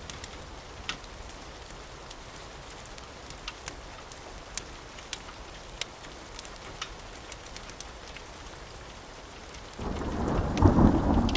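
Steady rain with scattered sharp pops, then a loud roll of thunder that begins near the end and builds.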